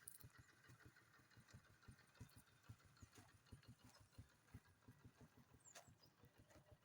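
Near silence, with a faint, irregular patter of low thuds throughout and a brief faint high chirp about six seconds in.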